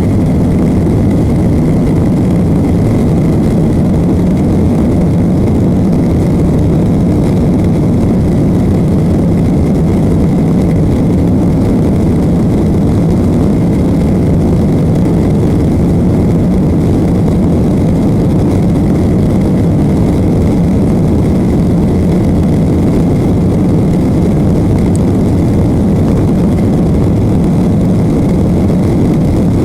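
Steady jet engine and airflow noise heard inside an airliner cabin, a constant low rumble with a faint thin whine running through it.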